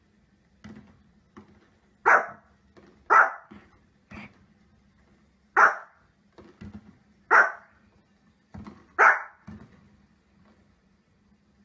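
Small fluffy dog barking in short, sharp single barks, five loud ones a second or two apart, with fainter sounds in between.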